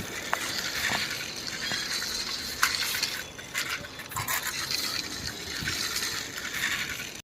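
Plastic toy crane being worked by hand: scattered light plastic clicks and rattles over a steady hiss.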